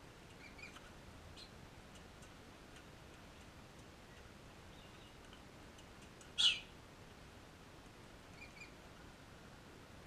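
A bird gives a single short, harsh squawk about six and a half seconds in. Faint small bird chirps come and go around it, early on and again near the end.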